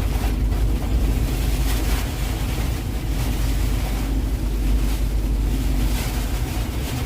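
Truck driving through a rainstorm: a steady low rumble of engine and road under a constant wash of rain and wind noise.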